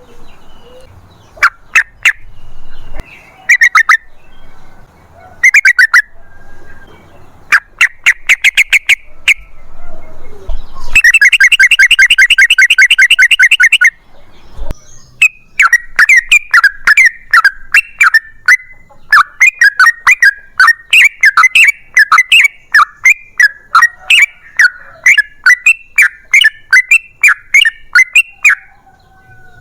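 Yellow-vented bulbul (trucukan) calling loudly: several short bursts of rapid chattering notes, then one long unbroken rapid run of about three seconds near the middle, followed by a fast string of repeated short phrases.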